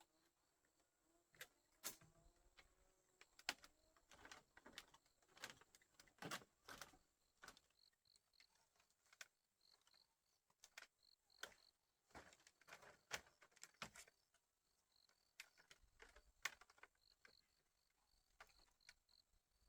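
Faint, irregular light knocks and clicks, with insects chirping in short, evenly repeated high pulses behind them.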